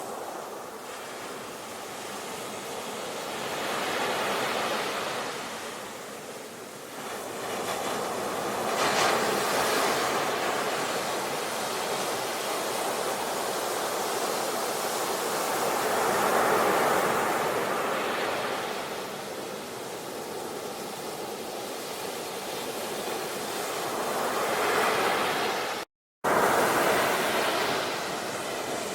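Sea waves surging and breaking on a shore, the wash swelling and falling away every several seconds. Near the end the sound cuts out for a split second and resumes.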